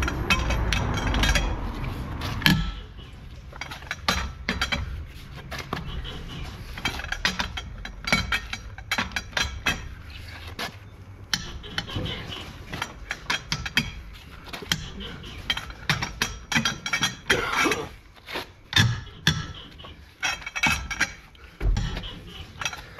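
Hand tools knocking and clinking on metal parts: a long, irregular run of short, sharp knocks.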